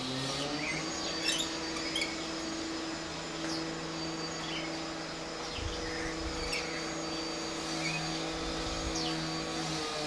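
Small birds chirping in short, scattered calls over a steady mechanical hum from some motor or machine running nearby.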